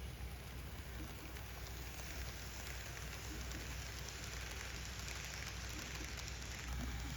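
N-scale model train running on layout track: a steady rushing noise over a low hum, growing a little louder near the end.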